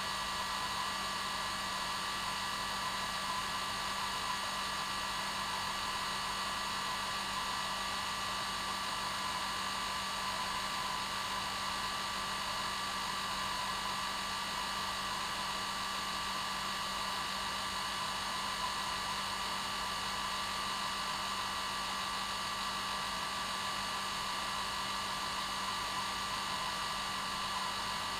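Hair dryer running steadily: an even hiss of blown air with a constant motor hum and whine, played as white noise to lull a baby to sleep.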